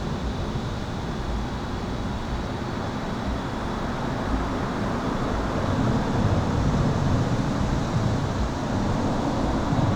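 Highway traffic rushing past, heard from beneath an overpass: a steady low rumble and tyre noise that swells about six seconds in, with a faint steady high-pitched electrical hum.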